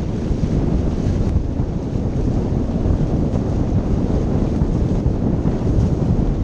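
Steady wind noise buffeting the microphone, mixed with rushing water.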